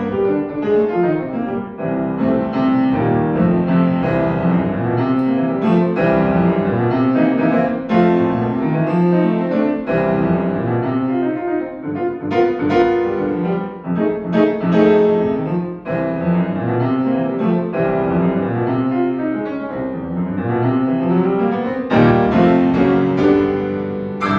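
Solo piano playing a jazz étude, a dense run of notes and chords with loud chords near the end.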